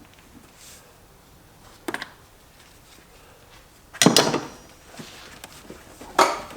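A few separate clanks of metal tools or parts being handled: a small double knock about two seconds in, a loud clatter about four seconds in, and another sharp knock about six seconds in.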